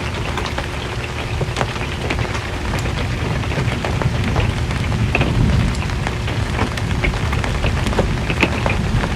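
Rain drumming on an RV's metal roof: a steady hiss full of sharp individual drop ticks. A low rumble swells about halfway through.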